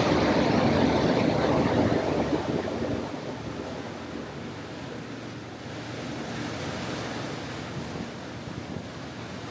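Rushing wind and water noise from the boat under way, loud at first, then falling off sharply between two and three seconds in and settling to a steadier, quieter hiss.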